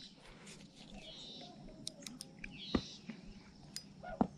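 Faint bird chirps, with a handful of light, irregular clicks in the second half.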